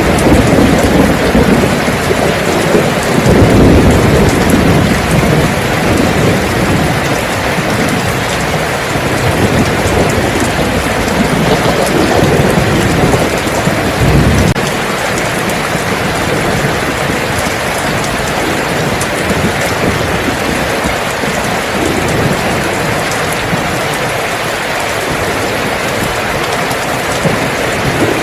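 Heavy rain falling steadily, with low rumbles of thunder about three seconds in and again briefly around the middle.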